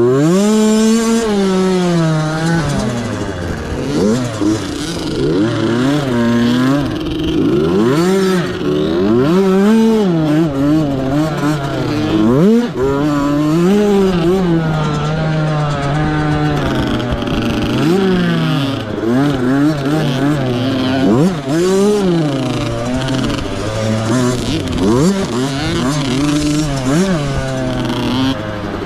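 Youth motocross bike's small two-stroke engine on the race track. It climbs sharply in pitch at the start, then revs up and drops again and again as the throttle is worked and gears change.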